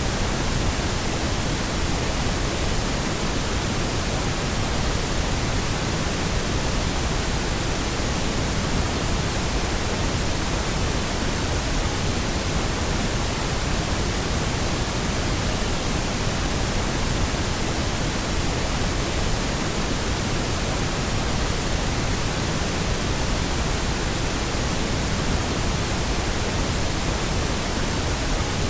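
Steady, unbroken pink noise: an even hiss across all pitches, weighted toward the low end, with no change in level.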